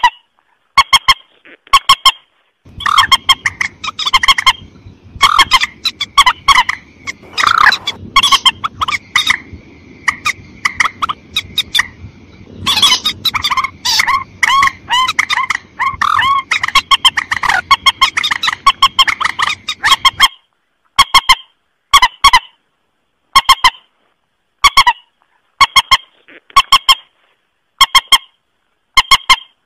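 Mandar (rail-family waterbird) calls, loud honking notes repeated in short pairs and runs. From about 3 to 20 s they come thick and overlapping over a low hiss, then go back to spaced pairs.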